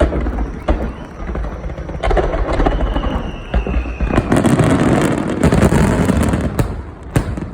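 Fireworks finale barrage: aerial shells bursting in quick succession with booms, building from about two seconds in to a dense, continuous crackle. A thin falling whistle runs through it near the middle.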